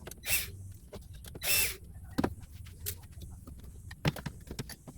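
Hand-handling noise from taking the battery out of a party box speaker's power supply and amplifier module: two short scraping sounds in the first two seconds, then scattered clicks and knocks of plastic and metal parts.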